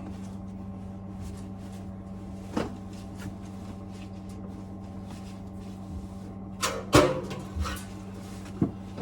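Scattered knocks and clatter of metal boiler parts being handled during reassembly, the loudest a sharp clank about seven seconds in, over a steady low hum.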